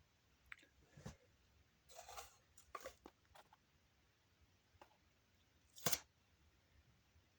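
A cracked bowling ball giving a scatter of short, sharp pops and clicks at uneven intervals. The loudest pop comes about six seconds in.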